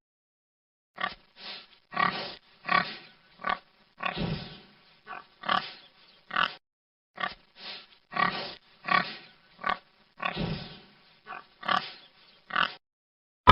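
An animal calling in a series of short, separate sounds, about two a second, starting about a second in.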